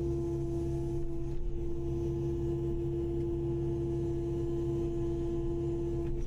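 Kubota KX080-5 excavator running, a low diesel engine sound under a steady whining tone from the machine.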